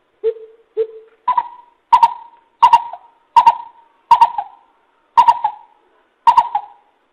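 Coucal (bìm bịp) calling: a series of deep, hollow hoots, two lower notes followed by seven higher ones, about one every 0.7 seconds.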